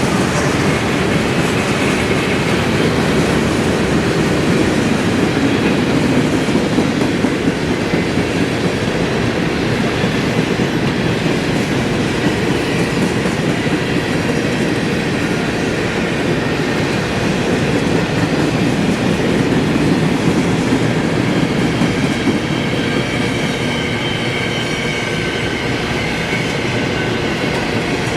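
Norfolk Southern freight train cars rolling past at steady speed, a continuous loud rumble of wheels on rail with clickety-clack over the joints. Faint wheel squeal rises near the end.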